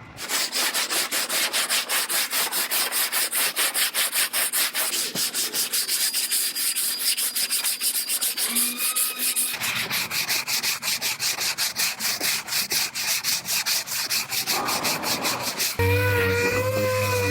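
Hand sanding on a car's quarter panel repair: a sanding block rubbed quickly back and forth, about four or five strokes a second. Near the end a steady pitched whine takes over.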